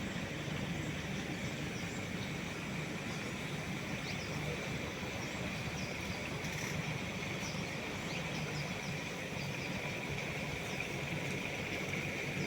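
Boat motor running steadily with a constant low hum, under a steady high-pitched drone and a few faint chirps.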